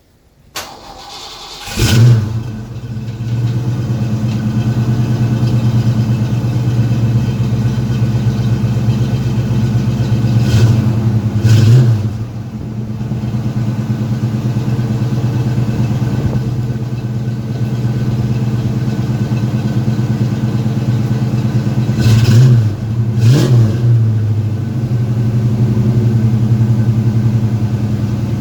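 1987 Ford Mustang 5.0 LX's 5.0-litre V8 cold-started: the starter cranks briefly and the engine catches with a flare about two seconds in. It then settles into a steady fast cold idle, with short revs twice around the middle and twice near the end.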